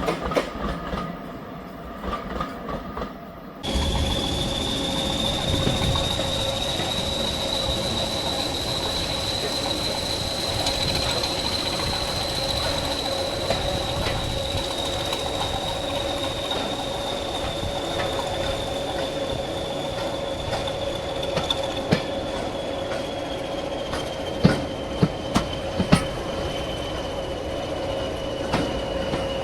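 A train running on the line, with a long high-pitched squeal or whine that drifts slowly in pitch and a few sharp clicks near the end. The sound changes abruptly about four seconds in.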